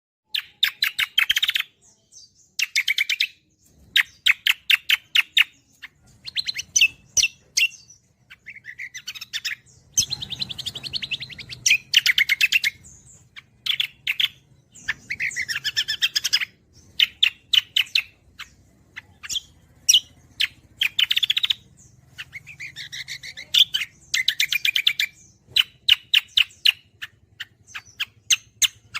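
A cucak kombo songbird singing in repeated bouts of rapid, high chirps and trills, each a second or two long with short pauses between. This is gacoran song, the kind played to caged songbirds to tutor them and set them singing.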